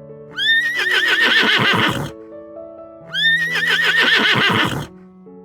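A horse whinnying twice, each whinny about a second and a half long: a sharp rise in pitch, then a shaking, falling neigh. Soft background music plays underneath.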